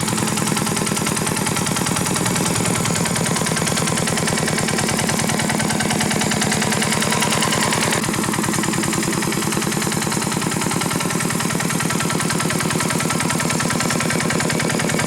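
Tractor engine running steadily with a rapid, even chugging of firing pulses.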